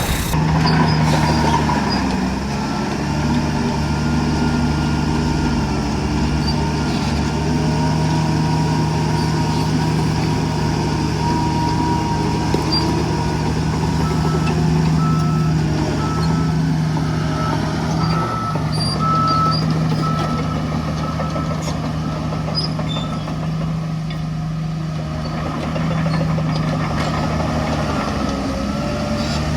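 Heavy diesel earthmoving machinery (bulldozer and dump truck) running steadily under load. Partway through, a reversing alarm beeps evenly for several seconds.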